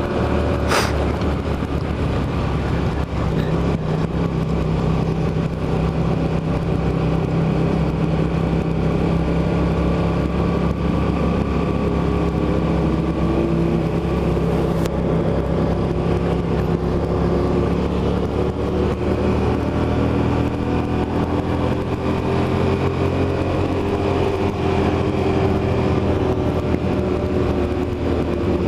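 Motorcycle engine running at a steady cruise, its note holding for long stretches and drifting slowly up and down in pitch, over a continuous rush of noise.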